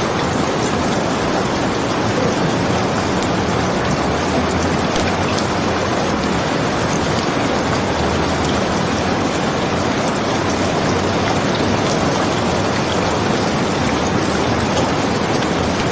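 Steady rain falling: an even, unbroken hiss, with a few faint sparse ticks over it.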